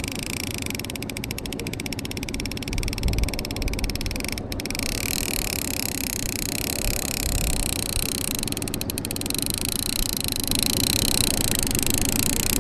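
Small boat's motor running steadily at trolling speed, with water and wind noise. A fishing reel's clicker ratchets briefly as line pays out, at the start and again about nine seconds in.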